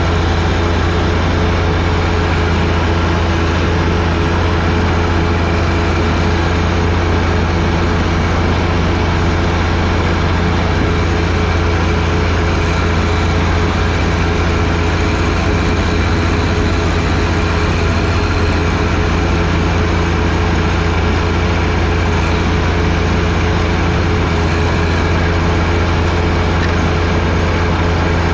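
John Deere 1025R sub-compact tractor's three-cylinder diesel engine running steadily, driving its 47-inch front snowblower. A constant low drone with no change in speed.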